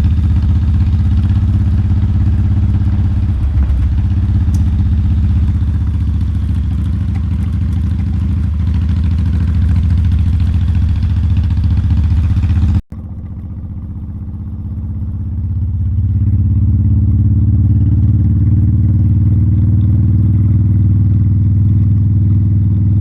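Motorcycle engine running under way, steady and loud, with a rush of wind noise over it. About 13 s in the sound cuts abruptly to a quieter engine without the rush, which then builds up again as the engine speeds up.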